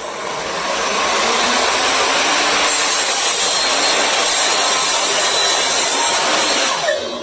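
Evolution F255SMS sliding mitre saw running with its blade cutting through wood: a loud, steady sawing noise that builds over the first second. Near the end there is a brief falling whine as the cut finishes.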